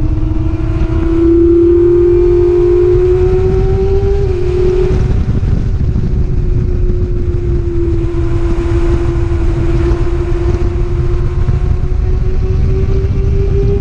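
Racing motorcycle engine running hard at high revs under heavy wind rush. Its pitch climbs slowly, dips once about four to five seconds in, then holds and creeps up again.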